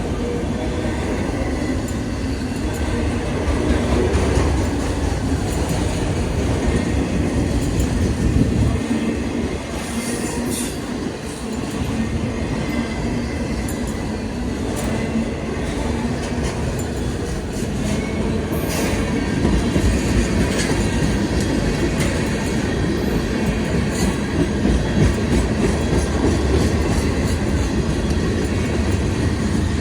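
Freight cars of a CSX manifest train rolling past: a steady rumble of steel wheels on rail, with clicking as the wheels cross rail joints and a couple of brief high wheel squeals.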